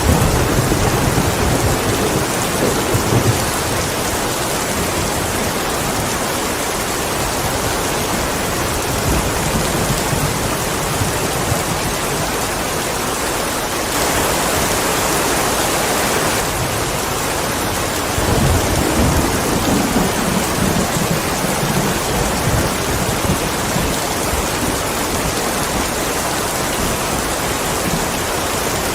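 Steady heavy rain with low rumbles of thunder near the start and again about two-thirds of the way through. The rain briefly grows louder about halfway through.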